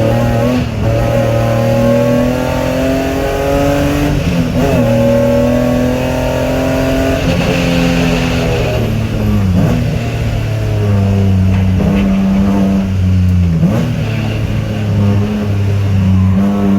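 BMW E30 track car's swapped-in E46 M3 straight-six engine running hard under load, its note dipping sharply and picking back up three or four times.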